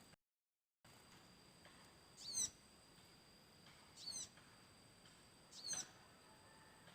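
Sunbird giving three short, high calls about a second and a half apart, each a quick run of falling notes. A faint, steady high whine runs underneath.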